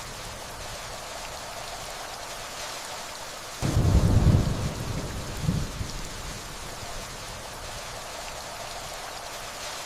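Steady rainfall with distant thunder. A low thunder rumble comes in suddenly about three and a half seconds in, swells again a couple of seconds later, then fades back under the rain.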